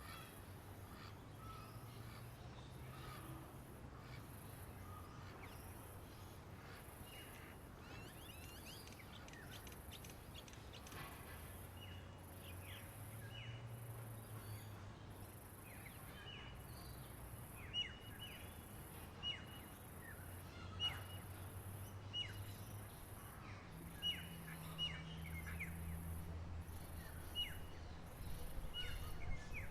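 Wild birds chirping: short high chirps and quick downward-sliding calls, sparse at first and more frequent in the second half. Behind them runs a faint high hiss that pulses about once a second, with a low steady rumble.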